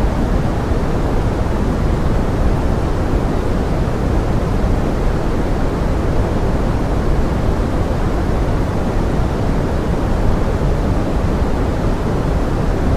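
Steady pink noise mixed with forest rain: an even, unbroken hiss, heaviest in the low end.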